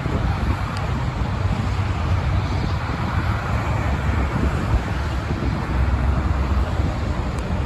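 Steady road traffic: cars, trucks and buses passing, as a continuous hiss with a strong, fluctuating low rumble.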